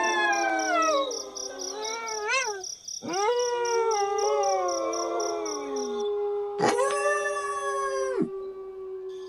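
Several wolves howling together, long overlapping howls that rise and fall in pitch, one of them held at a steady pitch for several seconds.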